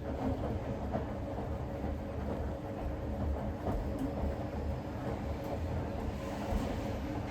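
Ipso commercial washing machine running, its drum turning with a steady low rumble and hum. The drum bearings are getting louder with wear.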